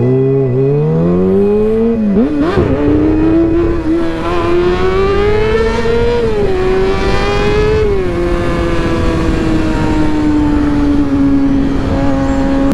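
Motorcycle engine under hard acceleration for a wheelie, revving up through several gear changes, each marked by a quick drop in pitch. About eight seconds in, the revs ease off and the pitch sinks slowly as the bike rolls on, with steady wind and road rush underneath.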